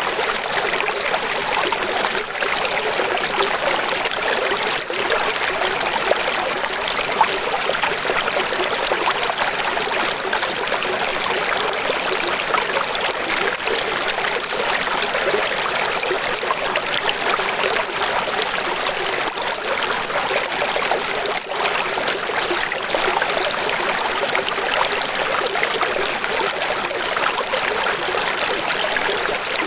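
Running water flowing steadily and evenly, a bright splashing sound with almost no deep rumble.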